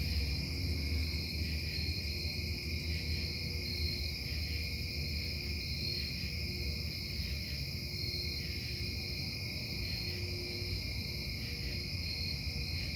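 Steady low hum of foundry machinery running through the night, with high steady tones and a faint slow pulsing above it.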